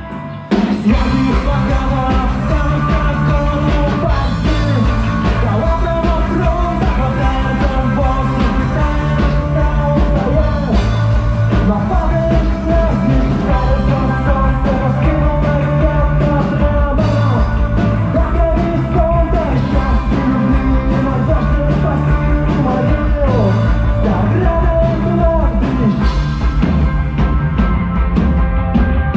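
Live rock band playing loud, dense music with a voice singing over it; the band drops out for an instant at the start and comes back in at full volume about half a second in.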